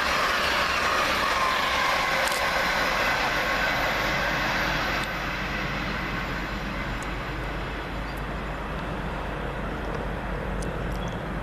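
Class 800 passenger train passing along the main line: a loud rush of wheel and running noise with whining tones that fall in pitch, easing off about five seconds in and carrying on as a quieter, steady rumble as the train moves away.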